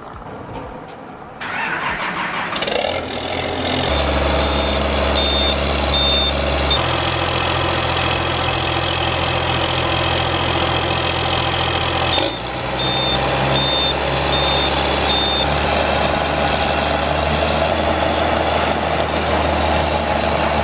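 A vehicle engine starting and then running steadily, with its engine speed shifting a couple of times. A high-pitched beeping comes in two short stretches partway through.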